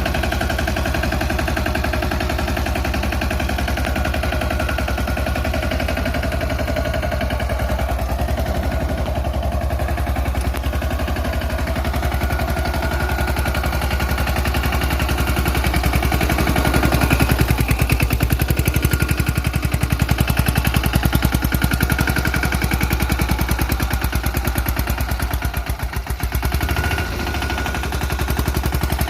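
The engine of a DK Champion 15 HP mini tractor running, a rapid, even train of exhaust pulses. It dips briefly near the end and then picks up again.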